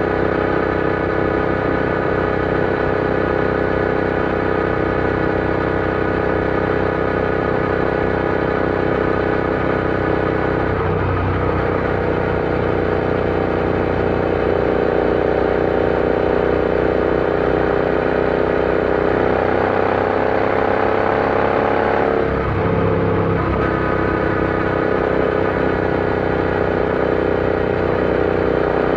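Royal Enfield Interceptor 650's parallel-twin engine running under way at a steady note. The pitch dips and recovers about 11 seconds in, rises slowly, then drops sharply about 22 seconds in before settling again.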